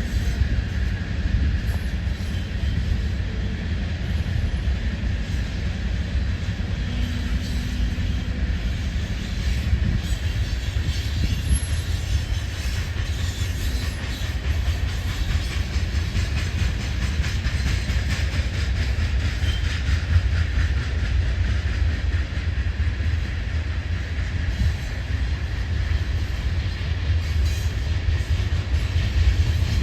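Loaded ethanol tank cars of a freight unit train rolling past in a steady rumble, the wheels clicking over the rail joints.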